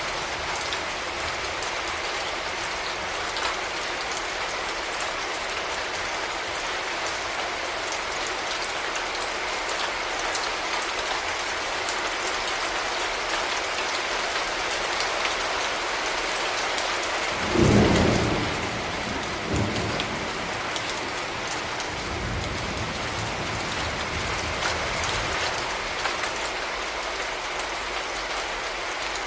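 Steady rain falling and pattering on hard surfaces. A little past halfway comes a sudden loud low boom that dies away within about a second, followed by a smaller one and then a faint low rumble.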